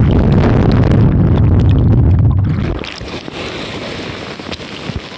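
Waterfall roar with heavy wind buffeting on the microphone, a loud low rumble for about the first three seconds that then drops to a steadier rushing hiss.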